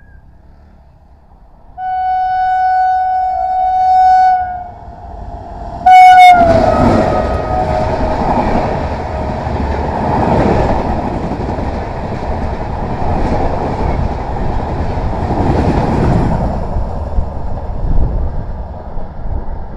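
WAP7 electric locomotive's horn sounds a long steady blast about two seconds in, then a short second blast that drops in pitch as the locomotive passes. The express's coaches then run past at speed, a loud rumble and rush with wheel clatter, fading near the end.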